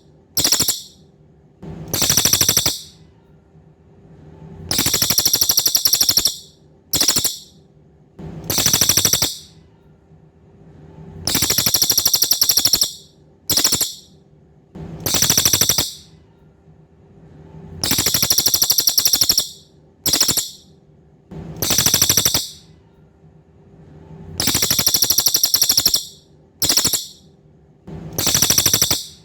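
Cililin, a songbird kept for song in Indonesia, calling loudly in rapid, high trilled bursts of half a second to two seconds, repeated every one to three seconds. A faint steady hum runs underneath.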